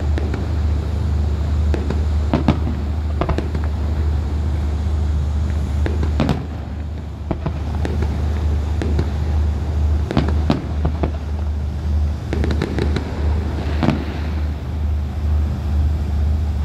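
Fireworks going off: irregular sharp bangs and crackles, a dozen or so, some in quick clusters, with a fast run of them near the end, over a steady low drone.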